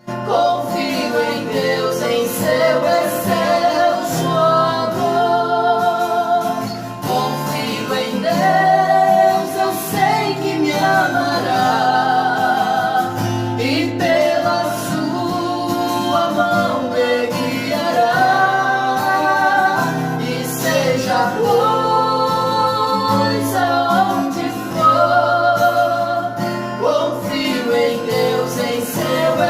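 Worship song: a woman singing with vibrato over guitar accompaniment.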